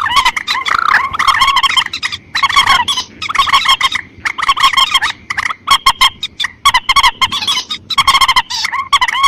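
Calls of the mandar sawah, a rail, from a bird-lure recording: fast runs of repeated notes broken by brief pauses.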